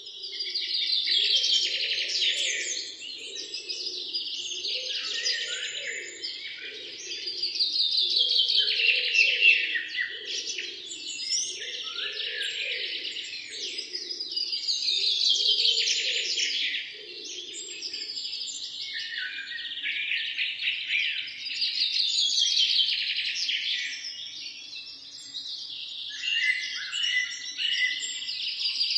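Several songbirds singing at once, a dense chorus of overlapping chirps and trills that swells and eases every few seconds. A lower, repeated warbling call runs underneath for the first two-thirds, then stops.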